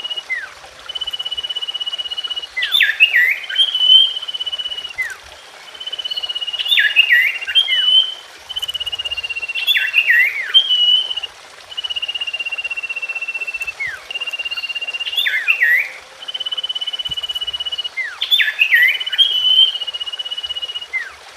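Common iora song: a long, level whistle followed by a quick cluster of sliding notes, the phrase repeating every three to four seconds.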